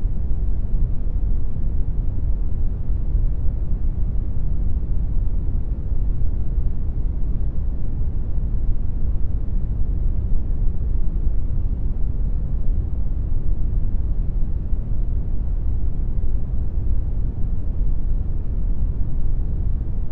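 Synthetic brown noise: a steady, unchanging deep rushing hiss, heaviest in the bass and thinning out toward the highs.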